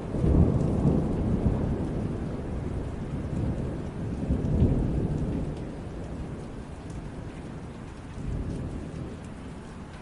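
Steady rain with rolling thunder. The rumble is loudest just after the start, swells again about halfway through, then dies away.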